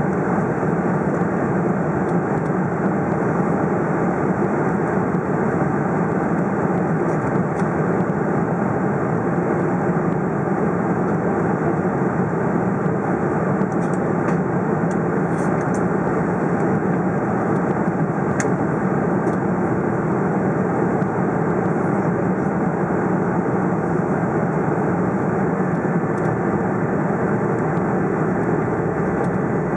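Steady cabin noise inside a Boeing 747-400: the jet engines and the airflow past the fuselage make an even, unchanging rumble.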